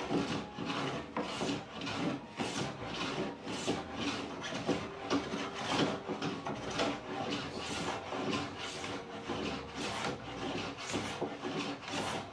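Rubbing strokes worked by hand back and forth over the wood of a door, a rasping sound at about two strokes a second, steady throughout.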